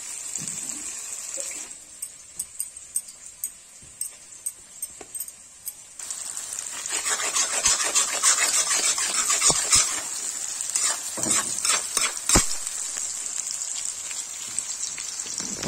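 Chopped onion, capsicum and garlic sizzling in hot oil in a black kadai while a metal spatula stirs and scrapes them. The frying is softer for the first few seconds with small clicks, then louder from about six seconds in, with a few sharp knocks of the spatula against the pan later on.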